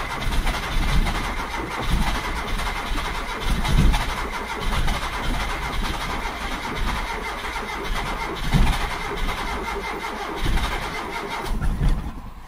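Carburetted car engine cranking on the starter for a long stretch, with irregular low chuffs as it nearly fires but fails to catch. It stops about twelve seconds in. This is a no-start after contaminated fuel fouled the spark plugs, with the carburettor still suspect.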